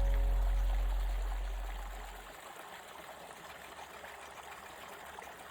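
The last low note of the music fades out over about two seconds. It leaves the steady sound of running water, a small stream trickling.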